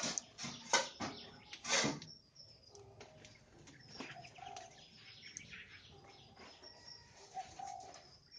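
White-rumped shamas moving about a breeding cage: a few loud bursts of wing flapping in the first two seconds, then lighter fluttering, hopping and rustling with a few faint short chirps.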